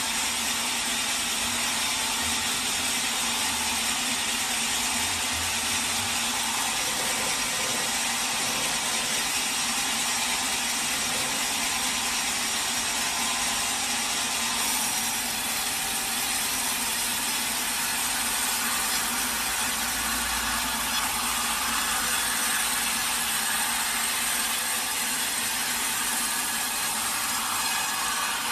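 Sawmill blade cutting steadily through a teak log: a dense, unbroken sawing noise whose character shifts slightly about halfway through and eases just at the end.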